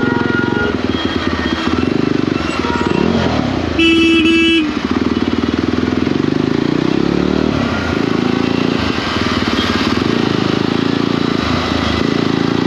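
Jawa 42 motorcycle engine running steadily at highway speed, with one short horn blast about four seconds in.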